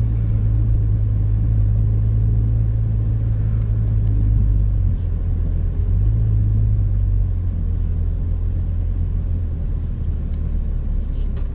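Steady low rumble of the MINI John Cooper Works Countryman's turbocharged four-cylinder engine heard inside the cabin at low speed, its tone shifting about five seconds in and easing off near the end.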